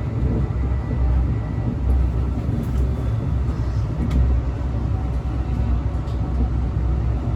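Steady low rumble of a Brightline passenger train running, heard from inside a passenger car, with a few faint ticks.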